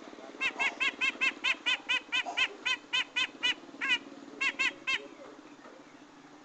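Grey-cheeked bulbul (cucak jenggot) calling: a rapid run of about twenty short, arching notes, some four a second, with a brief break near the end. A steady low hum runs beneath.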